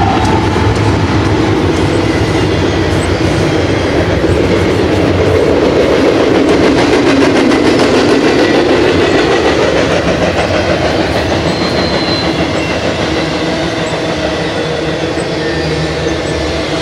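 Freight train passing close by. The trailing GE diesel locomotives drone past in the first few seconds, then double-stack container cars roll by with steady wheel and rail noise that swells in the middle.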